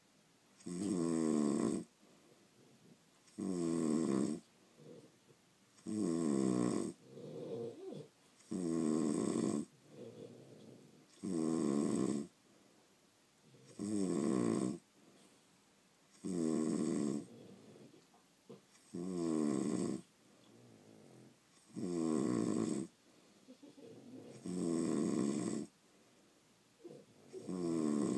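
Sleeping French bulldog snoring in a steady rhythm: loud snores about one second long, roughly every two and a half seconds, with fainter short noises between some of them.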